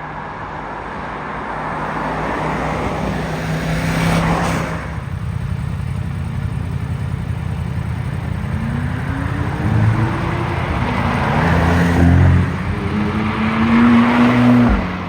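Yamaha MT-10 motorcycle engine accelerating, its pitch rising in several steps through gear changes, over steady road and wind noise.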